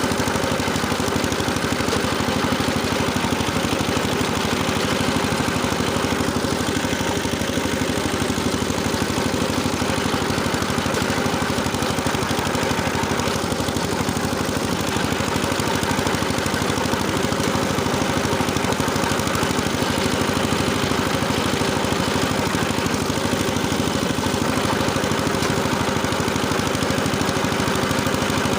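Engine of a rotary tiller running steadily as it tills the soil.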